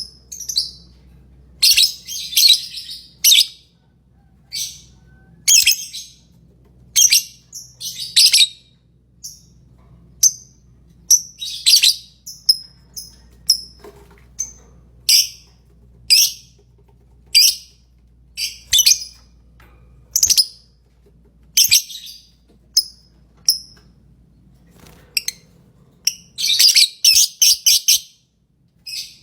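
Lovebirds chirping: a long run of short, shrill high chirps at an uneven pace, bunched into quick rapid strings now and then, with a faint low hum beneath.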